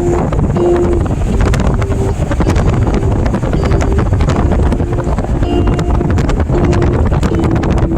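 Loud, steady wind rush buffeting the microphone of a moving car, heaviest in the low end. Short held notes of a melody come and go over it.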